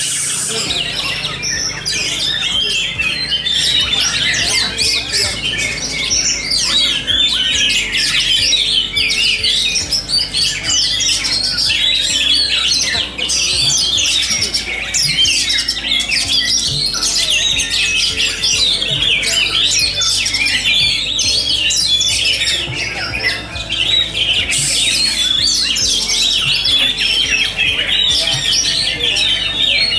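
Many oriental magpie-robins singing at once in a dense, unbroken chorus of rapid chirps, whistles and harsh notes: the din of a magpie-robin singing contest.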